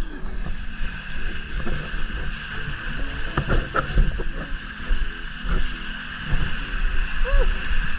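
Water sloshing and splashing close to the camera, with wind buffeting the microphone, while floating on a waterpark lazy river.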